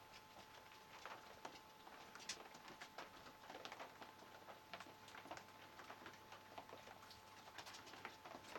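Near silence with faint, irregular pattering of light rain drops and a faint steady high hum underneath.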